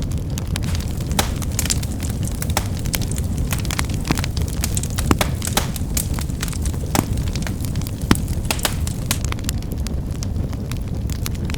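Fire crackling: frequent sharp pops and snaps at irregular times over a steady low rumble of the flames.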